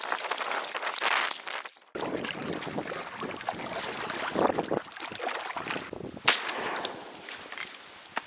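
A single sharp, loud shotgun shot about six seconds in, over a rustling wind-like noise on the microphone.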